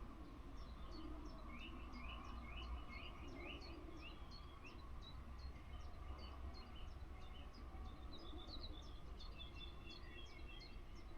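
Small birds chirping in the trees: rapid short high chirps throughout, with a quick run of trilled notes about two seconds in and again near the end, over a steady low background rumble.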